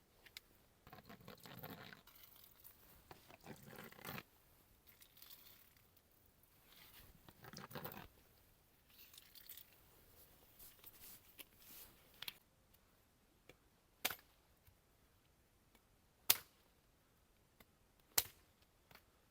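Faint rustling and crunching handling noises, then three sharp knocks about two seconds apart.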